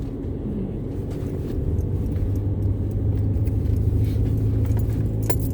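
Car engine and road rumble heard from inside the cabin while driving, a steady low hum that grows a little stronger through the middle, with one sharp click near the end.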